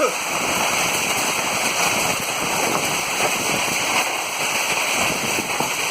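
Hailstorm: hailstones pelting down in a dense, steady clatter of many small impacts.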